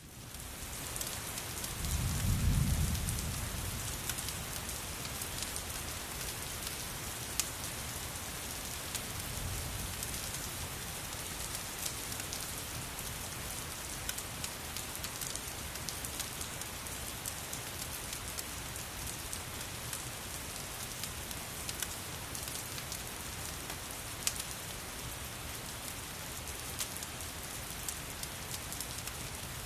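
Steady heavy rain with scattered sharp ticks, and a low rumble of thunder about two seconds in followed by a fainter one around ten seconds.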